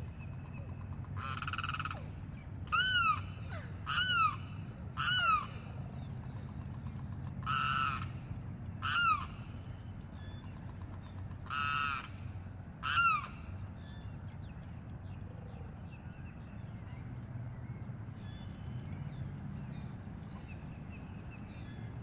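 A bird gives about eight short calls with a rising-then-falling pitch over the first half, then falls quiet. A steady low rumble runs underneath.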